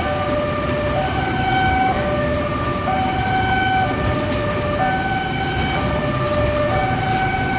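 Railway level crossing alarm sounding a two-tone electronic signal that swaps pitch about once a second. Underneath it is the steady rumble of a container freight train on the track.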